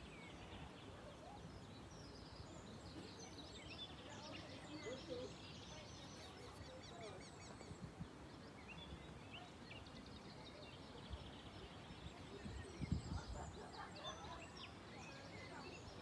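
Faint birds chirping in scattered short calls over a steady background hiss, with a brief low rumble about thirteen seconds in.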